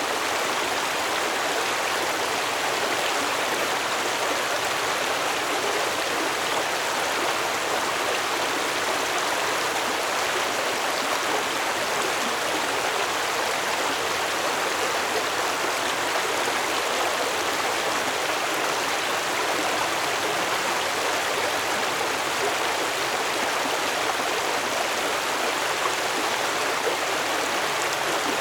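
Water of a stream flowing steadily, an even rushing and babbling with no pauses or changes.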